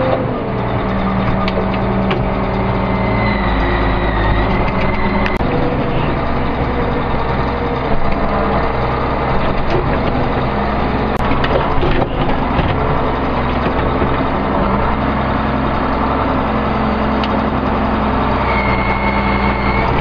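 Case 2290 tractor's six-cylinder turbo diesel running steadily under load, its speed shifting now and then, with a few sharp knocks. A high whine comes in briefly twice.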